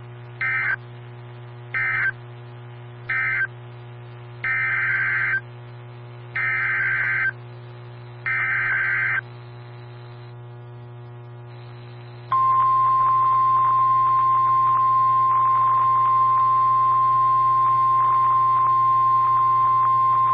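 NOAA Weather Radio alert signalling: three short warbling data bursts (SAME end-of-message code), then three longer data bursts (SAME header for the next warning), then the steady 1050 Hz warning alarm tone starting about twelve seconds in and holding for almost nine seconds. A constant low hum lies under it all.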